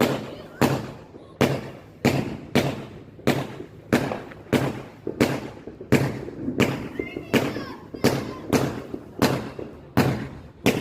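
Fireworks going off in a steady series of sharp bangs, about three every two seconds.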